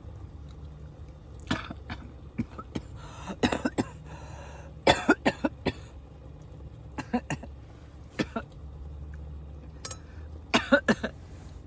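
A woman coughing and choking in several short fits after tasting a spoonful of hot food that went down the wrong way.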